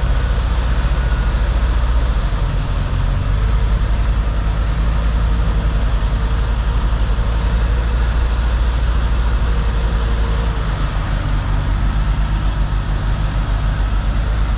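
Off-road 4x4 driving slowly along a snowy trail: a steady, deep rumble of engine and drivetrain, with a faint steady whine above it.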